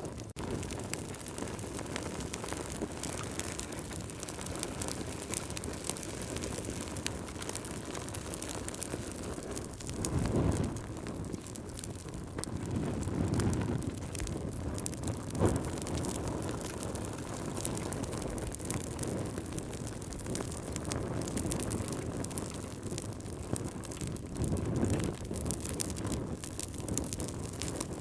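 Campfire burning, with a steady hiss and many small crackles and pops, and a few louder low whooshing swells.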